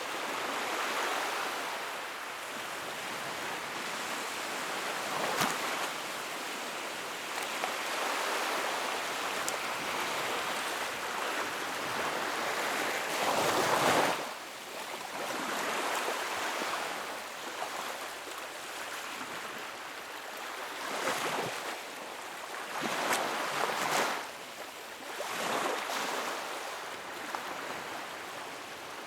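Wood fire burning in a fireplace: a steady rushing of flames that swells and fades, loudest about two-thirds of the way through, with scattered sharp crackles and pops.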